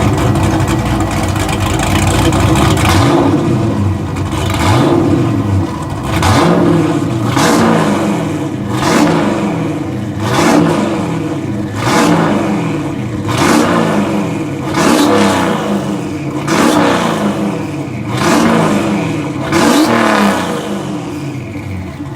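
Turbocharged 5.7L LS V8 with a BTR Stage 4 turbo cam, through a 4-inch exhaust, running for the first few seconds and then revved in about a dozen quick throttle blips, one every second and a half or so, the pitch rising and falling with each.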